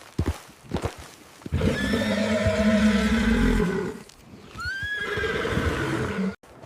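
Horse hoofbeats, then two long neighs. The first starts about a second and a half in and lasts over two seconds; the second comes a few seconds later and rises in pitch at its start.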